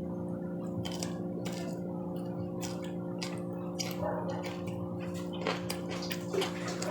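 Close-up chewing of cooked string beans: irregular soft crunches and wet mouth clicks.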